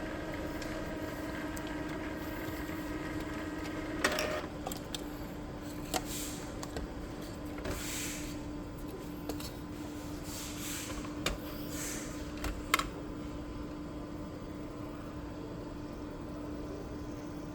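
Epson L3256 inkjet printer's mechanism running: a steady hum, then from about four seconds in a string of sharp clicks and short whooshing passes.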